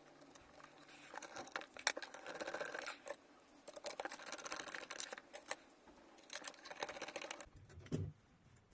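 Parts of a cordless vacuum cleaner being handled and fitted back together by hand: three spells of faint rustling with light clicks, then a soft thump near the end.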